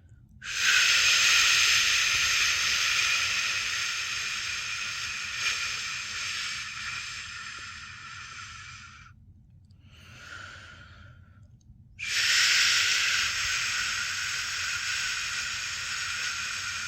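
A person making a long 'shhh' shushing sound to settle a newborn to sleep, slowly fading over about eight seconds, then a short soft breath, and a second long 'shhh' starting about twelve seconds in.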